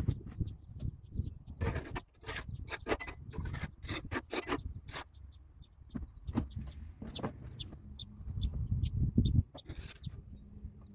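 Irregular scraping and rubbing strokes of hand cleaning on the metal around a hydraulic cylinder, with faint short squeaks between them and a low rumble that swells about nine seconds in.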